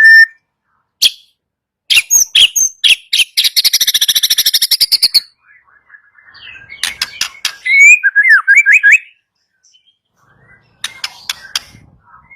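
White-rumped shama singing: sharp clicking notes, a fast buzzing rattle a few seconds in, then a run of loud slurred whistles gliding up and down, and more sharp notes near the end.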